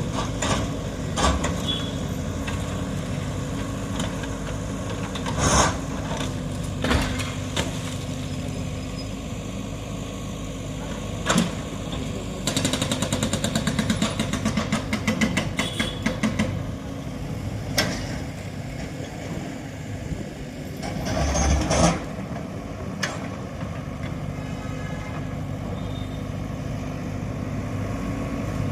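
A steady engine hum runs throughout, with scattered sharp knocks and bangs and a few seconds of rapid, even rattling near the middle.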